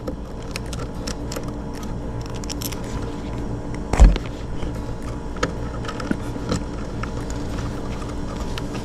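Scattered small clicks and scrapes of hands handling electrical wires and wire nuts, with one louder thump about four seconds in, over a steady low hum.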